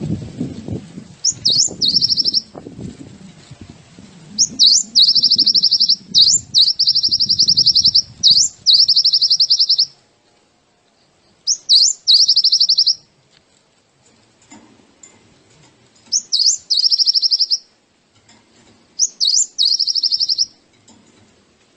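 A small songbird sings about seven short, high phrases with pauses between them; each is a quick sweep followed by a fast, buzzy trill lasting a second or two. Soft low rumbling noise sits under the first half.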